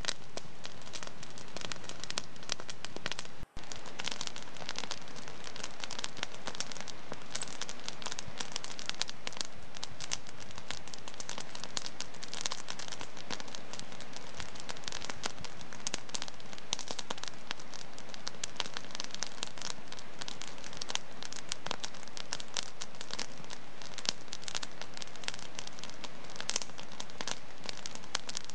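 Wood fire in a fireplace crackling steadily, a dense run of small pops and snaps. The sound drops out for an instant about three and a half seconds in.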